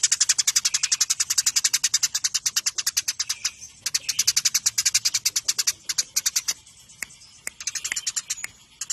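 Eurasian tree sparrow giving its rapid agitated fighting chirps: a dense run of short, sharp, high chirps, about ten a second. The run breaks briefly about three and a half seconds in and thins to scattered chirps around seven seconds in.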